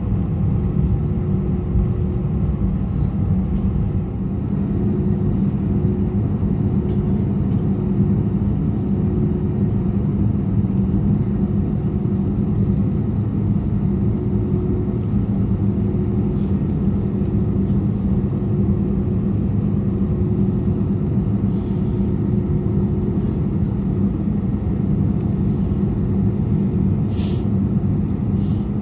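Airbus A320 cabin noise heard from a window seat: a steady low rumble of the jet engines and airflow, with a constant hum underneath.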